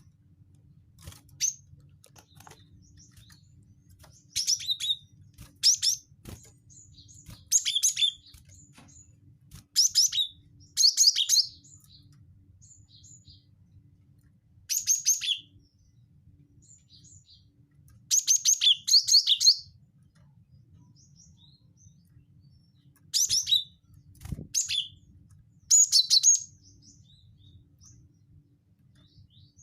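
Gelatik batu (cinereous tit) calling in short bursts of rapid, high chattering notes, repeated every one to three seconds, the kind of recording Indonesian keepers play to lure a caged tit into song. A faint low hum runs underneath, and there is one dull thump about two-thirds of the way through.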